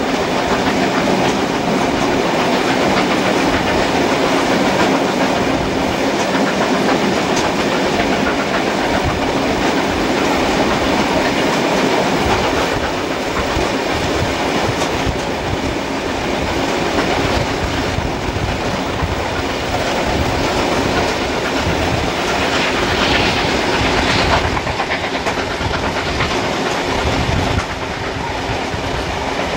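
Carriage wheels running at speed over the rails, with a steady clickety-clack and rushing noise, heard from an open carriage window of a train hauled by steam locomotive 3801. The sound drops slightly in loudness near the end.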